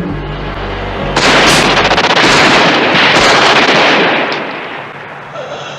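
Rapid, sustained gunfire on a film soundtrack, starting about a second in and lasting about three seconds before dying away, with film score music under the start.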